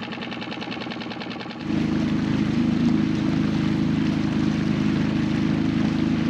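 Small dinghy outboard motor running, at first a slow, even putter. About a second and a half in it changes abruptly to a louder, steadier run with a rush of water.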